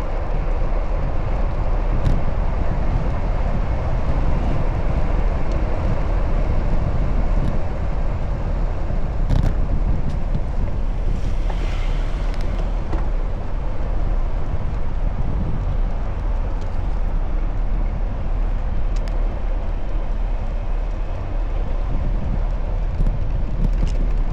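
Steady wind rush over the microphone of a camera riding along on a moving bicycle, with road and traffic noise underneath. There is a brief hiss about halfway through and a few faint ticks.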